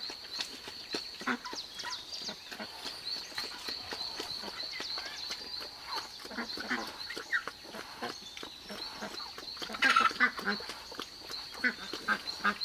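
Ducks quacking over and over, with a louder cluster of quacks about ten seconds in, over a steady high-pitched drone.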